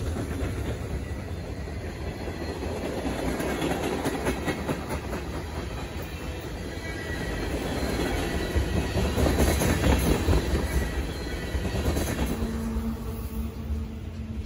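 Freight train cars rolling past close by: steel wheels clattering over the rail joints over a continuous rumble, loudest about ten seconds in. A low steady hum joins near the end.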